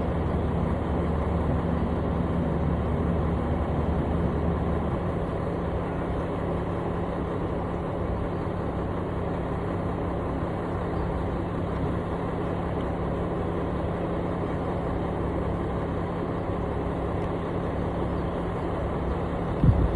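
Construction machine's engine running steadily; a deeper note in its sound drops away about five seconds in, and a short thump comes near the end.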